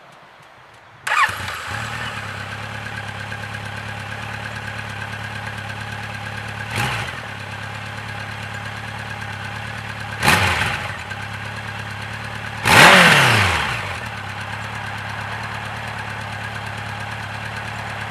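Honda CB1100 EX's air-cooled inline-four starting about a second in, then idling steadily through its exhaust. It is blipped three times, each rev rising and falling back to idle, the last one the biggest.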